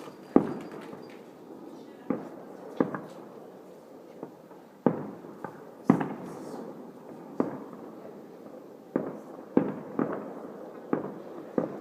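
Fireworks going off: about fourteen sharp bangs at irregular intervals, some in quick succession, each followed by a short echoing tail.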